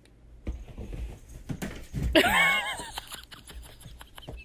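A cat's single meow about two seconds in, amid scuffling and light tapping and knocking.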